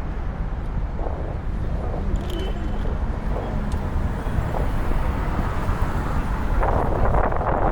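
City road traffic: a steady low rumble of cars in slow traffic. A rougher rush of wind on the microphone comes in near the end.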